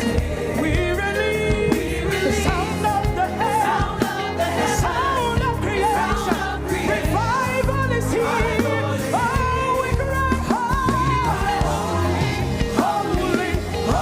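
Live gospel worship music: a band with drums and a strong beat, with voices singing held, sliding notes over it.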